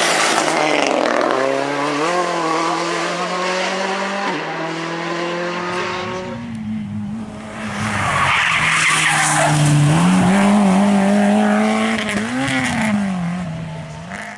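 Rally car engine at high revs, its pitch stepping down at each upshift. About halfway through, a louder stretch follows: the engine revs rise and fall over a hiss of sliding tyres. The sound drops away sharply at the end.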